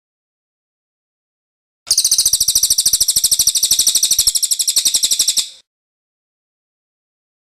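A cililin bird's rolling song: one fast, evenly pulsed trill of high-pitched notes lasting about four seconds, starting about two seconds in and cutting off abruptly.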